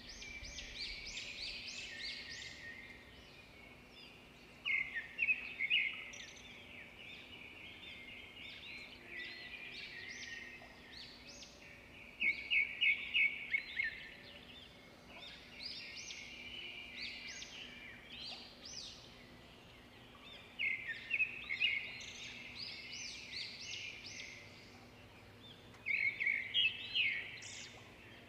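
A small bird singing: bursts of rapid, high chirping trills that come every several seconds, over a faint steady hum.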